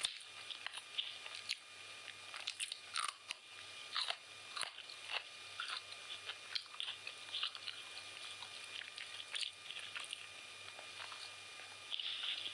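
Close-up sounds of a person eating chicken biryani: irregular wet chewing, biting and crunching clicks, several a second, over a faint steady hum.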